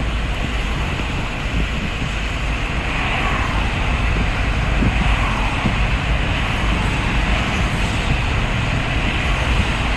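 Steady rain falling, an even hiss with a deep rumble underneath.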